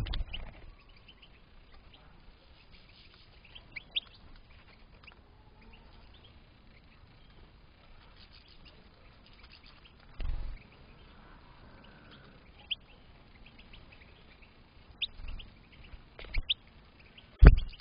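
European goldfinches giving short, scattered chirps, with a few brief low thumps; the loudest thump comes near the end.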